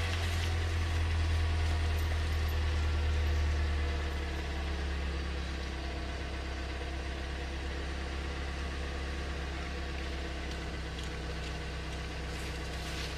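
2022 Toyota Camry engine idling steadily with a low hum, a little louder for the first few seconds and then settling.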